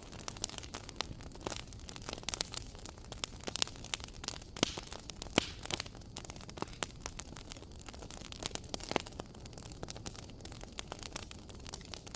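Wood fire crackling in a fireplace: irregular sharp pops and snaps over a low steady hiss of burning.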